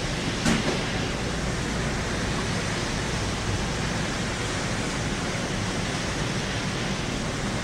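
Steady rain during a thunderstorm: a constant even hiss, with one brief tick about half a second in.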